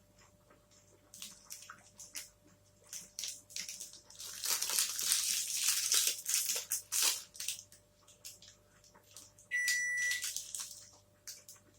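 Close-miked eating of a protein bar: chewing with wet mouth clicks, and a denser crunching stretch about four to seven seconds in. About ten seconds in, a short high electronic beep sounds once.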